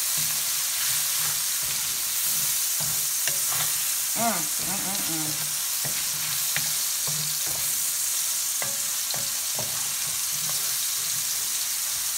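Onions and mushrooms sizzling in oil in an enameled cast-iron skillet while a wooden spoon stirs and scrapes them, with scattered clicks of the spoon against the pan. A brief wavering tone about four seconds in.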